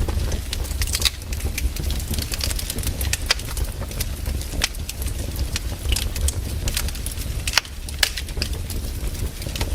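Firewood fire crackling, with irregular sharp pops over a low steady rumble.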